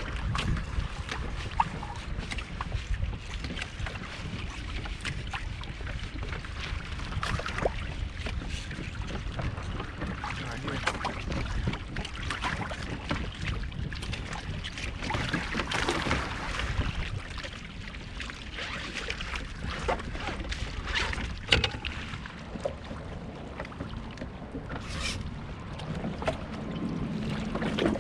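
Wind rumbling on the microphone and water against a kayak, with scattered small knocks and clicks throughout.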